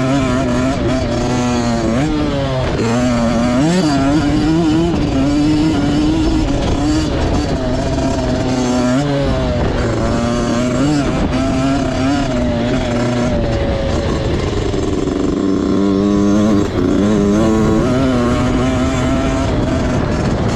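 Motocross bike engine revving hard round a track, its pitch climbing and dropping again and again as the throttle is worked and gears change, with a brief cut in the throttle near the end.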